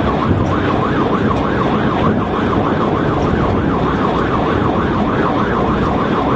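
Police car siren on its fast yelp setting, the pitch sweeping up and down about three times a second without a break, over steady road and engine noise from a cruiser at highway speed.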